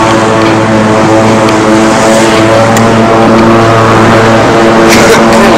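An engine running steadily and very loudly, close by, its pitch shifting slightly every second or so, with a few short clicks near the end.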